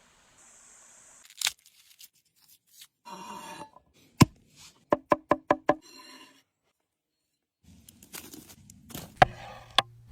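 A series of sharp knocks and clicks, with a quick run of about five near the middle, separated by short bursts of noise.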